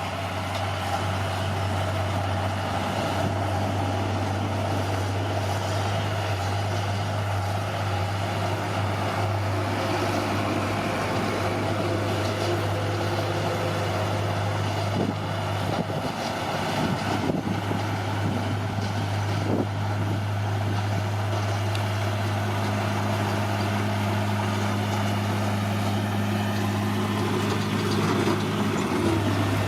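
Diesel engine of a heavy earthmoving machine running steadily with a deep, even hum, with a few light knocks near the middle.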